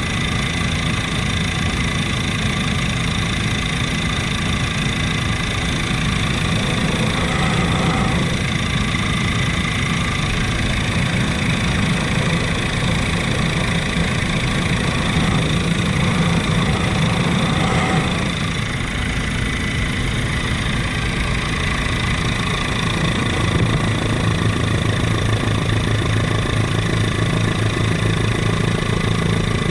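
Helicopter in flight: a continuous, steady drone of engine and rotor, shifting slightly in tone a few times.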